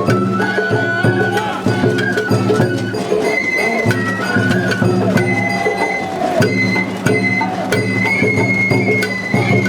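Sawara-bayashi festival music: a high bamboo flute melody that steps up in pitch about three seconds in, over regular drum strokes.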